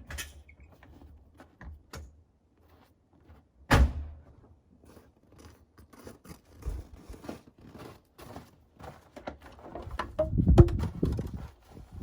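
Clicks and knocks of handling, with one loud thunk about four seconds in and a short low rumble near the end.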